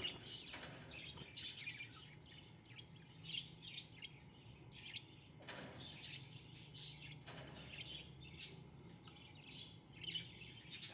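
Budgerigars chirping: many short, high chirps in irregular runs, over a faint low hum.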